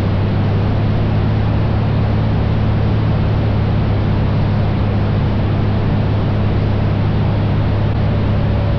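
Single-engine Cessna 172's six-cylinder Continental engine and propeller droning steadily in flight, a constant low hum with a hiss of wind noise over it.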